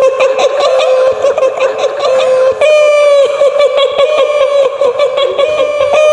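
A woman's high-pitched cackling laugh, a long run of quick pulses, about five a second, on a nearly level pitch that steps up a little partway through: the laugh attributed to the kuntilanak ghost.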